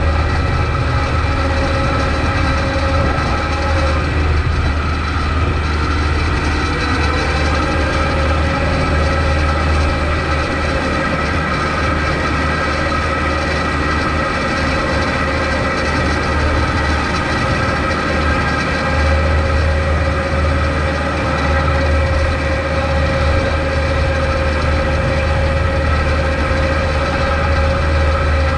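Kubota MX5200 tractor's four-cylinder diesel engine running steadily while plowing snow. Its pitch sags about four seconds in and recovers a couple of seconds later.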